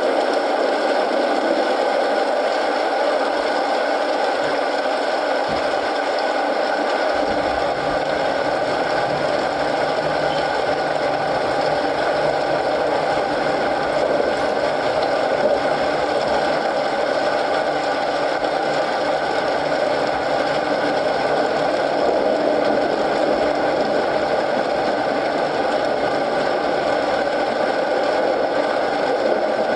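Steady rain with a crackling wood fire in a fireplace, a continuous even hiss with a few faint pops. A low rumble joins about seven seconds in.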